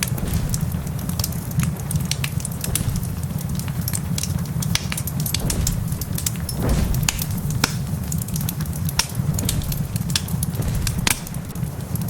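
Log fire crackling, with frequent sharp pops and snaps at irregular intervals over a steady low rumble.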